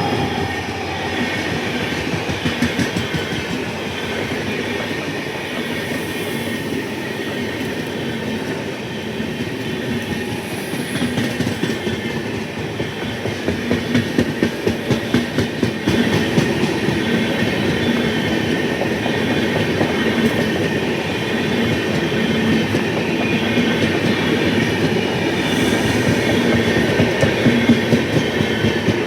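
A train running past on the track: a steady rumble with the clickety-clack of wheels over rail joints, coming in quick rhythmic runs that are loudest around the middle and near the end.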